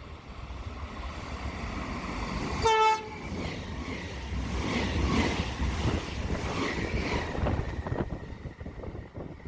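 A train horn gives one short blast about three seconds in, the loudest sound here, followed by a train running through the station with rumbling wheel and rail noise that eases off near the end.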